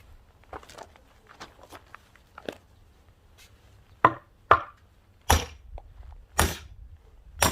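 Splitting a firewood log with an axe: a few faint knocks, then from about four seconds in a run of about five sharp chopping blows and knocks on the wood, the last with a brief metallic ring.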